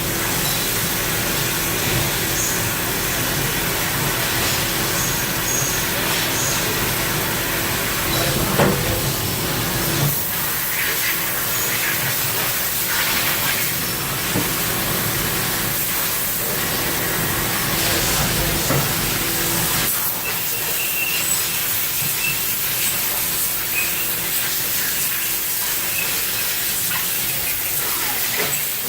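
2004 Haas VF-2SS CNC vertical mill running, a steady hum over a hiss, with a few light clicks. The hum stops near the end.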